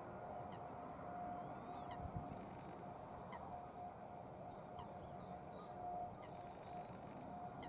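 Wild birds calling faintly: repeated honk-like calls with short high chirps from small birds.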